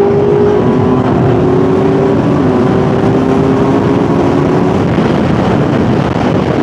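Kawasaki inline-four sportbike engine running at road speed under a rush of wind noise. Its pitch falls slightly in a couple of small steps, about two and five seconds in, as the bike eases off.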